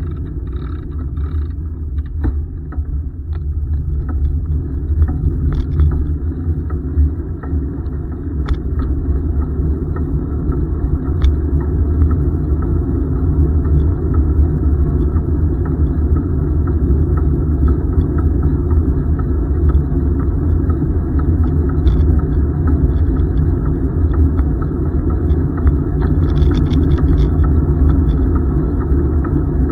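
Steady low rumble of wind buffeting the microphone on a moving bicycle, with tyre noise underneath and a few faint ticks.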